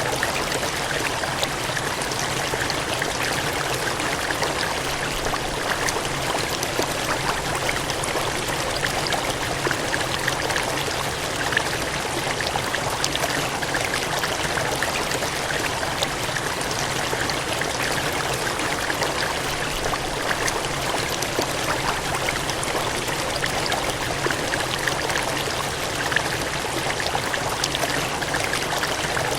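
Water gushing and cascading in a steady, continuous rush with fine splashing detail and no pauses.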